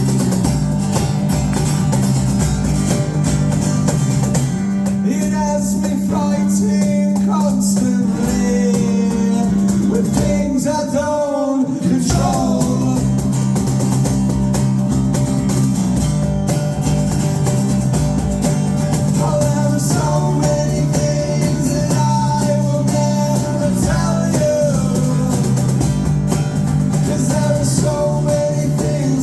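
Live rock band playing a song: guitar over a steady bass line, with a singer's voice coming in for two stretches.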